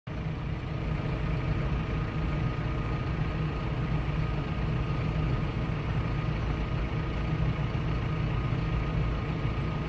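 An engine running steadily at idle with an even low rumble and a faint steady whine above it.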